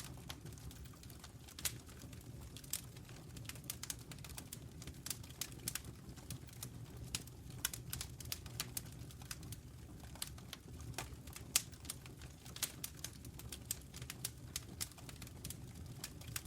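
Wood fire burning in a fireplace: irregular crackles and pops from the burning logs over a low, steady rumble of the flames.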